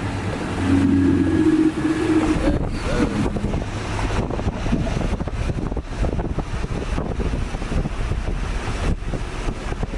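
Straight-piped exhaust of a third-generation Acura TL's V6 running alongside at cruising speed, with wind buffeting the microphone. A steady drone in the first seconds turns into a rougher, fuller rumble from about three seconds in.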